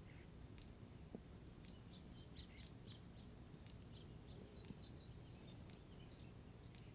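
Faint, high bird chirps and twitters, busiest about four to six seconds in, over a low steady background hum.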